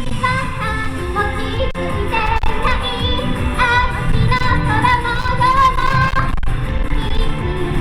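Live pop music with a woman singing a melody over a backing track, with wind rumbling on the microphone underneath.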